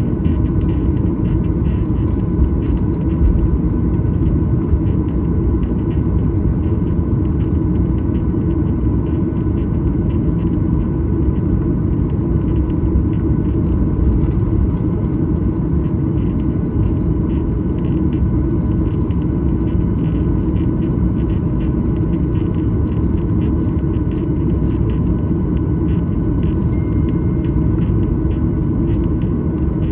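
Cabin noise inside a Boeing 737-900ER: a steady low rumble from its CFM56-7B turbofan engines and airflow, with a faint steady whine over it.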